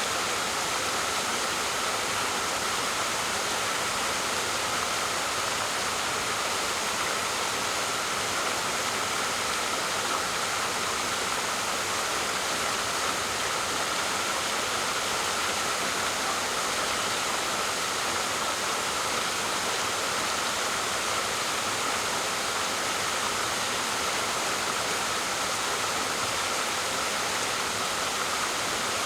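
Waterfall: water falling and splashing in a steady, unbroken rush, strongest in the middle and upper range.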